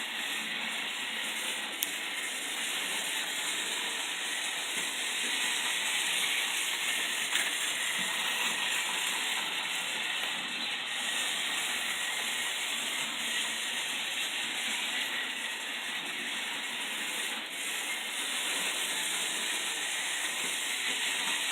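Märklin HO-scale 0-8-0 model steam locomotive running along the track: a steady whirring rattle of its motor, gear train and wheels on the rails, with a couple of light clicks.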